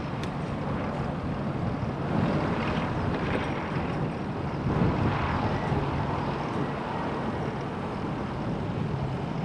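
Steady rushing wind and road noise on a GoPro's microphone while riding a bicycle, swelling briefly twice.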